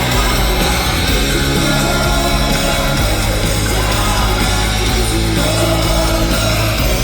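Live rock band playing a loud, dense passage without lead vocals, heard through a concert PA.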